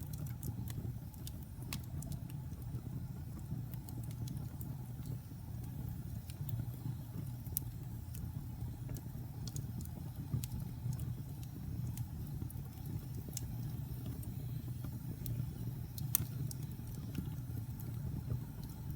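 Wood fire crackling in a fireplace: a steady low rumble of the burning fire with scattered sharp pops and snaps, the loudest snap about sixteen seconds in.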